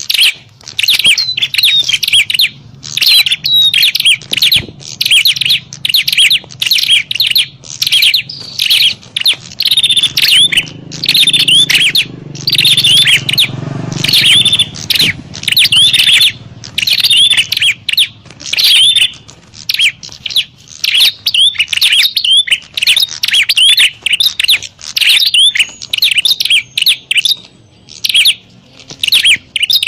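Prenjak (prinia) birds giving the agitated, noisy calls of a fight: a dense, unbroken run of sharp, high chirps, several a second, used as a lure call for wild prenjak.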